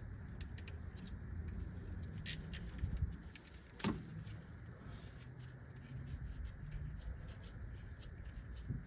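Faint scattered metallic clicks and taps of a 12mm bolt being turned out of the AC compressor mount and handled, with one sharper click a little under four seconds in, over a low steady rumble.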